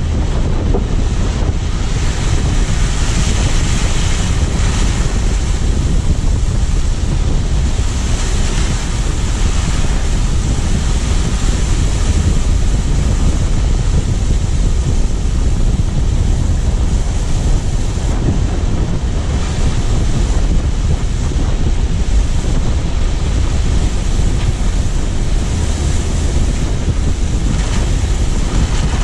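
Steady wind rush buffeting a car-mounted GoPro's microphone while driving, over a low rumble of tyre and road noise, swelling and easing with no break.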